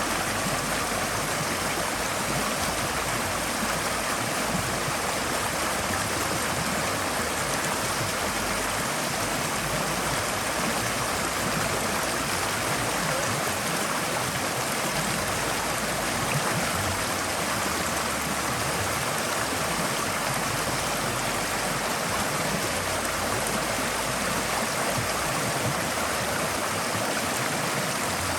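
Forest stream flowing over rocks: a steady rush of water with a bright splashing hiss and no pauses or changes.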